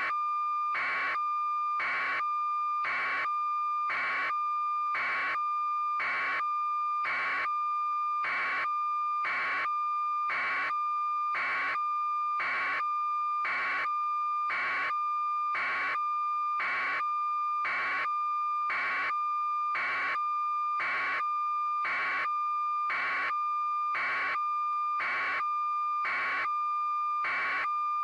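Steady electronic tone with a short pulse about once a second, evenly repeating: a test or standby signal.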